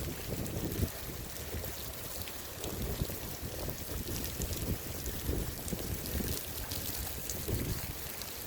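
Tropical storm wind and rain: gusts buffet the microphone with an uneven low rumble, over a steady hiss of rain with many small ticks of drops.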